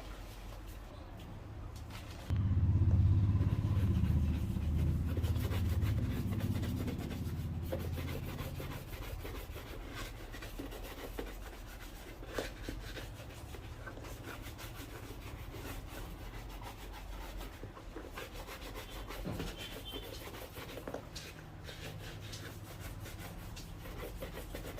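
Light, continuous rubbing and scraping with small clicks from hand work on a shoe. A low rumble comes in suddenly about two seconds in and dies away over several seconds.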